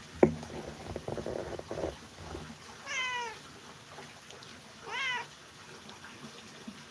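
A sharp knock, then a couple of seconds of clattering and rustling, followed by a domestic cat meowing twice, two short meows about two seconds apart.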